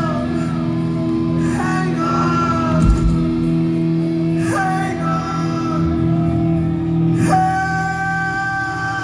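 Rock band playing live, with a sustained guitar chord under a singer's long held notes, three new notes about a second and a half, four and a half, and seven seconds in.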